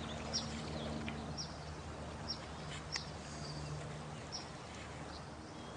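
Birds chirping in a night-time nature soundscape: short, high, falling calls about once a second over a steady low hum and an even background hiss.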